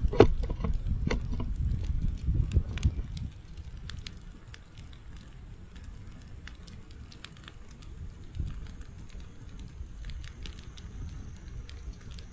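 Wood fire crackling in a fireplace, with sharp pops scattered throughout. A low rumble under them is louder for the first three seconds, then drops away.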